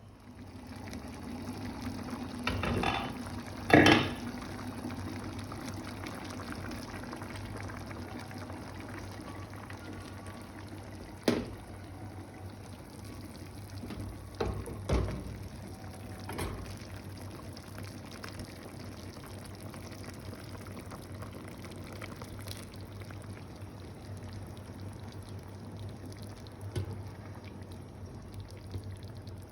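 Liquid bubbling steadily in a cooking pot, with a few short knocks of pot or utensil; the loudest knock comes about four seconds in.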